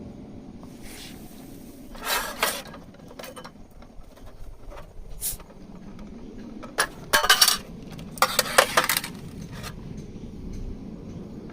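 Tableware and glassware clinking and knocking, in three short clusters of strikes: about two seconds in, around seven seconds in, and a longer run near nine seconds.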